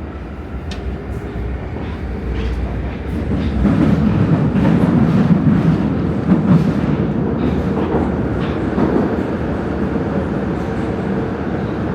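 Prague metro Line A train running between stations. A steady rumble of wheels and running gear builds from about two seconds in and is loudest through the middle, with scattered sharp clicks from the wheels on the track.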